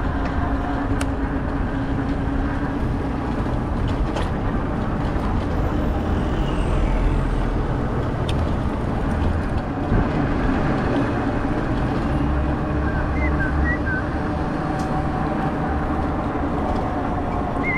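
Steady street traffic noise mixed with wind rushing over the microphone, heard from a bicycle moving through city streets, with a few faint high chirps near the end.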